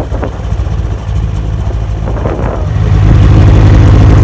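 Snowmobile engine running steadily, then getting louder about three seconds in as it picks up speed.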